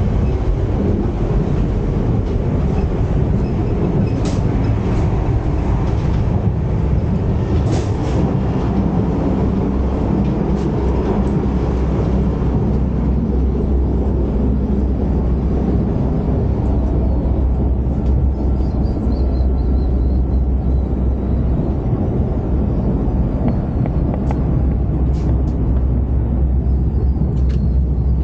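Steady rumble of an ETS electric train running, heard from inside the passenger carriage, the low rumble growing heavier about halfway through, with a few faint clicks.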